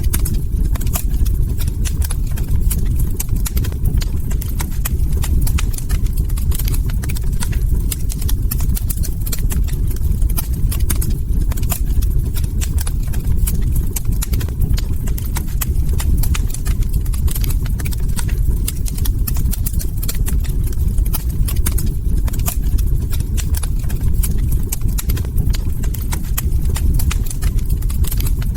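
Log fire crackling: frequent, irregular sharp pops and snaps over a steady low rumble.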